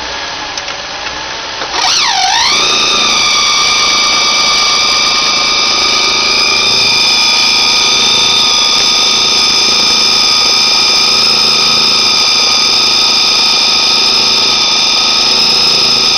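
Vehicle idling in gear with a loud, high whine of several pitches that comes in about two seconds in, dips and rises once, then holds steady. This is the abnormal noise heard with the transmission engaged.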